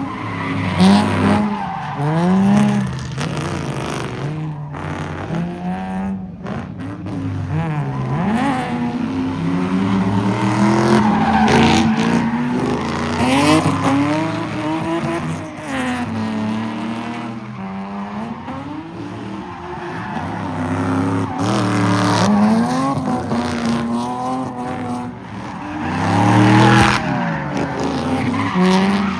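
A car spinning in a pit: its engine revs hard up and down again and again while the tyres squeal and skid.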